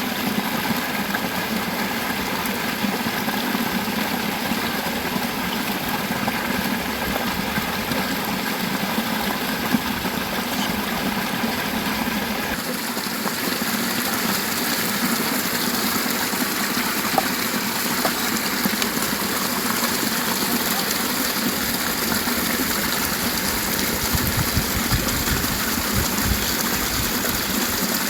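Steady rush of a flowing river, its tone changing suddenly about halfway through, with a couple of faint clicks.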